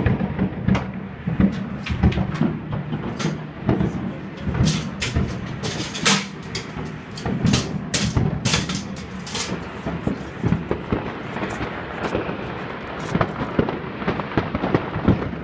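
New Year fireworks going off at a distance: a dense run of sharp bangs and crackles, thickest around the middle, over a continuous low rumble of booms.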